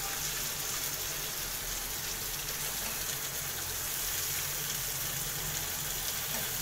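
Whole brinjals and chopped tomatoes frying in oil in a kadhai, a steady sizzle.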